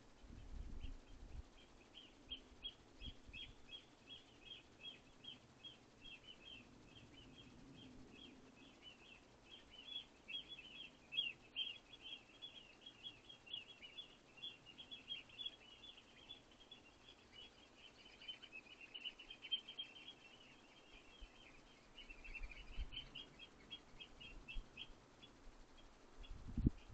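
Small songbird calling: a long, fast run of short high chirps, faint, with a few dull low thumps near the start.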